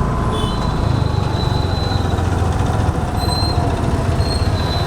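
Motor scooter running on the move: a steady low rumble of engine and road noise, with a thin high whine that comes and goes.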